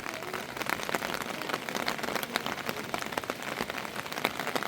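Rain falling steadily onto a surface, a dense stream of separate drop impacts over a hiss of rainfall.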